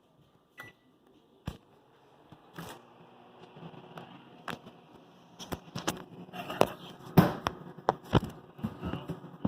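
Irregular clicks, taps and light scrapes of kitchen items being handled, a few isolated ones at first, then busier and louder from about halfway through.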